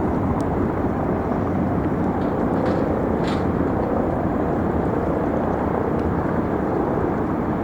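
Steady outdoor rumble of distant engines and traffic, with a faint drone in the middle and a few light ticks.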